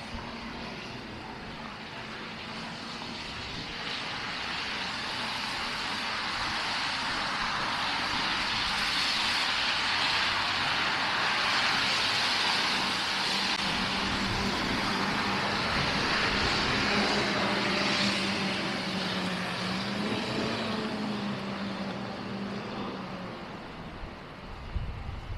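A vehicle passing by: a broad rushing noise that builds over several seconds, is loudest through the middle, then fades away. A steady low hum joins it in the second half.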